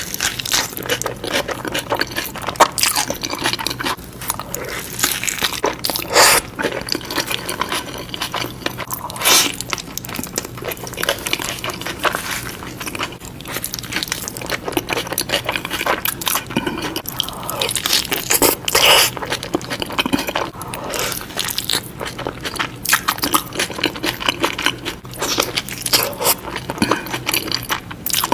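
Close-miked eating of shawarma: biting and chewing, with frequent irregular crunches.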